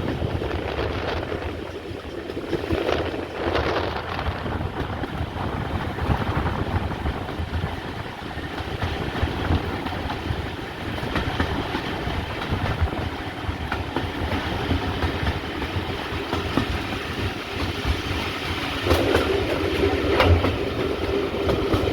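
Heritage steam train carriage running along the line: a steady rumble and clatter of wheels on the rails with scattered clicks. A steady pitched tone joins near the end.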